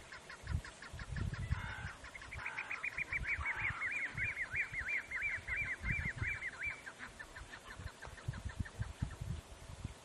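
A bird calling in a fast run of repeated notes, about four a second, loudest through the middle and fading out near the end. Irregular low rumbling gusts run underneath.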